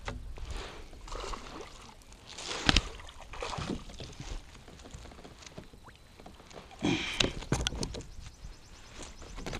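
Irregular knocks, rustles and splashes in a fishing kayak as a small fish is brought aboard, with a sharp knock a little under three seconds in and another cluster of knocks around seven seconds.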